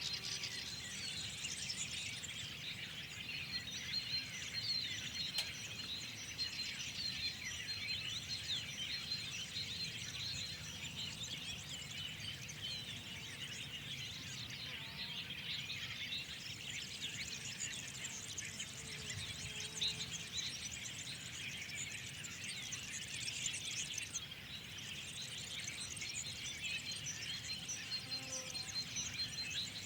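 Dense chorus of many small songbirds chirping and twittering at once, a continuous overlapping tangle of short high calls, over a faint low background rumble.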